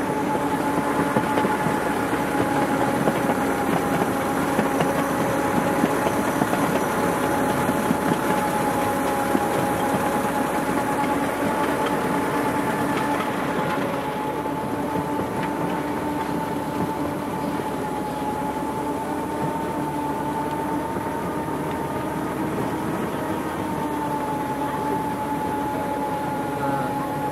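Miniature railroad train running along its track, heard from aboard: a steady running noise with a steady hum through it.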